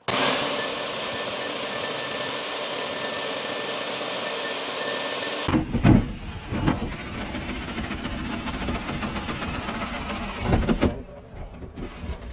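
A cleaning vacuum running steadily, a loud suction hiss with a faint high whine, that cuts off about five seconds in. It is followed by a few dull thumps and rough scraping of lint-cleaning work.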